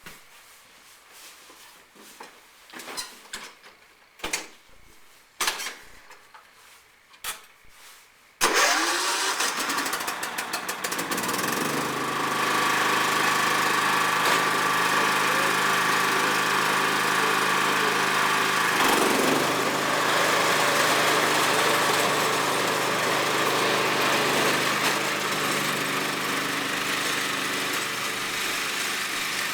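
A few scattered clicks and knocks, then about eight seconds in a John Deere lawn tractor's engine starts and runs steadily, driving a single-stage snowblower attachment. About eleven seconds in the level goes up, and it dips and rises again once a little past halfway.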